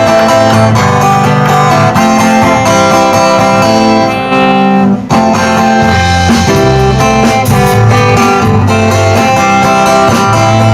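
Live band playing a song's instrumental intro: guitars strumming chords over a bass line and a steady beat.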